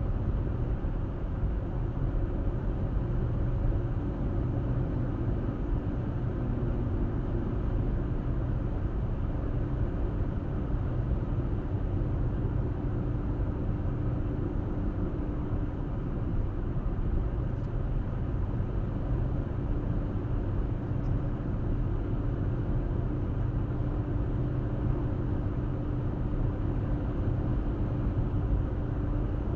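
Steady road and engine noise of a car driving at an even speed, a low rumble of tyres and engine with a faint drone.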